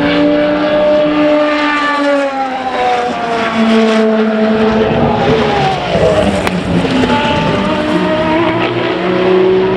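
Endurance racing cars running on track, several engine notes overlapping, their pitch sliding down and then climbing again near the end as the cars pass and pull away.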